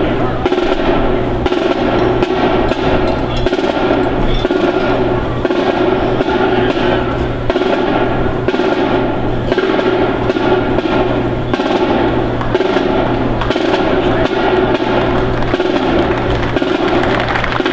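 Snare-drum cadence with drum rolls, played without a break.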